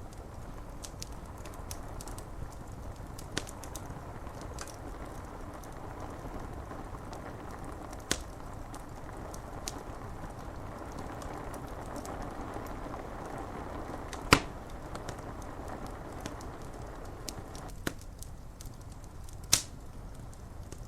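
Wood fire crackling, with scattered light ticks and four sharper pops, the loudest about two-thirds of the way in, over a steady hiss of rain on window glass.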